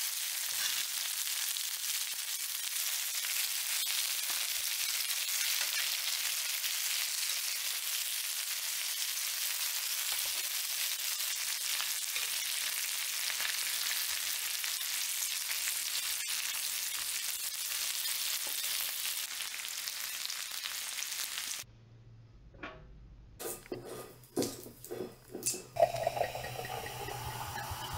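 Whole shrimp sizzling on a griddle pan, a steady frying hiss that cuts off about 21 seconds in. A few light knocks follow, then sparkling wine is poured into a glass, the pour rising in pitch as the glass fills and fizzing.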